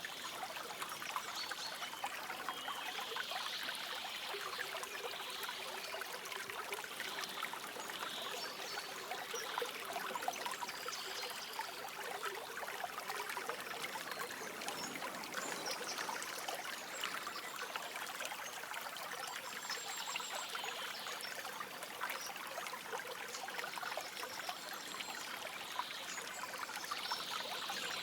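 A stream trickling and babbling steadily over stones, with soft birdsong coming and going above it.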